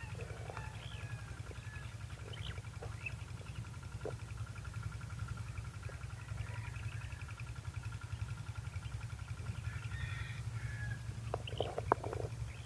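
Faint bird chirps and calls over a steady low rumble, with a few louder short sounds near the end.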